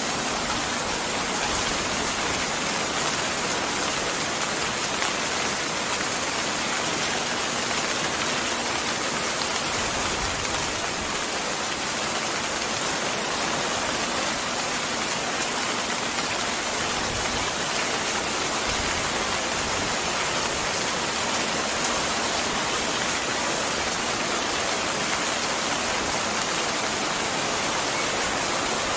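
Steady rain falling: an even hiss that keeps the same level throughout.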